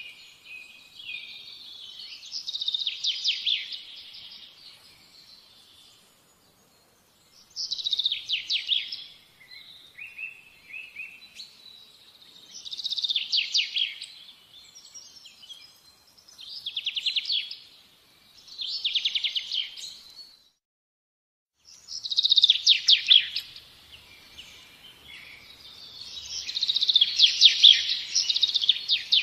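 Songbird singing: bursts of fast, high chirps and trills, a phrase every two or three seconds, with two short breaks of silence.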